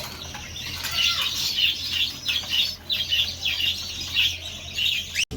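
Many small caged birds chirping and squawking in quick, overlapping short high calls. A faint low hum runs underneath, and the sound breaks off abruptly just before the end.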